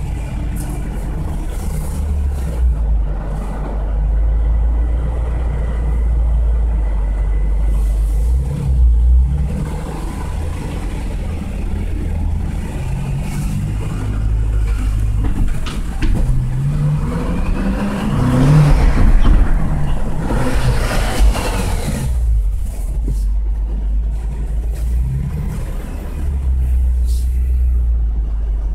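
BMW M6 heard from inside the cabin, moving with a steady low rumble. About 16 seconds in it revs up, its pitch rising for a few seconds, then settles back to the rumble.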